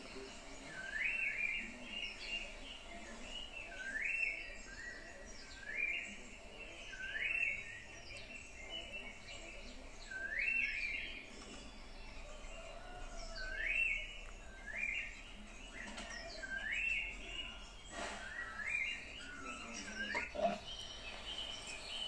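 A woodland bird calling over and over: a short note that sweeps upward and then levels off, repeated every second or two.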